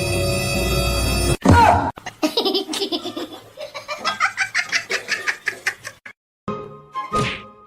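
Music that breaks off about a second and a half in with a short, loud swooping sound, followed by a few seconds of rapid, high-pitched laughter.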